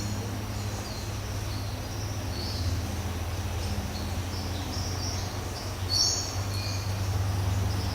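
Rainforest birds giving short, high chirping calls every second or so, the loudest about six seconds in, over a steady low rumble.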